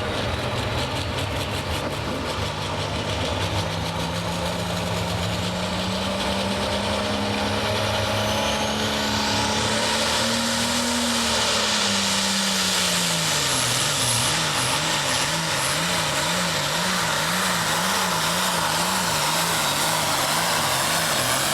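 Diesel engine of a hot farm pulling tractor under full load down the track, which the announcer takes for a Cummins. The engine revs climb for about ten seconds, then sag, and from there surge up and down about twice a second, with a rising hiss and a brief high whine over the top.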